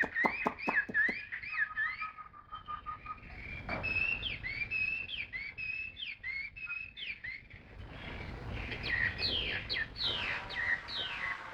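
Caged songbird singing: a run of short whistled notes that sweep up and down, quickening into fast falling notes near the end. A few sharp clicks in the first second.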